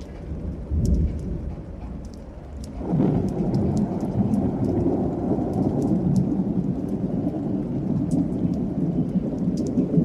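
Thunderstorm: steady rain with scattered sharp drop ticks, a brief low rumble of thunder about a second in, then a long rolling peal of thunder that swells near three seconds and keeps rumbling.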